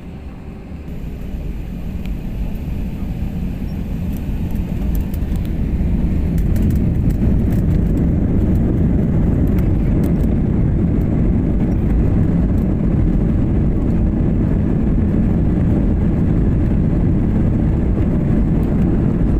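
Airliner's jet engines and runway rumble during the takeoff run, building steadily over about six seconds and then holding a loud, even low rumble.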